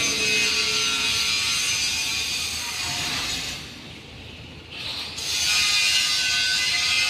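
Stick (arc) welding on a pipe joint: a steady crackling hiss from the arc that stops about three and a half seconds in and strikes up again about a second later.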